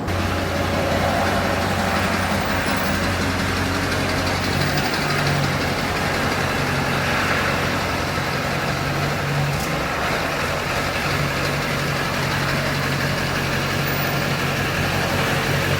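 Pickup truck engine idling steadily, an even low hum.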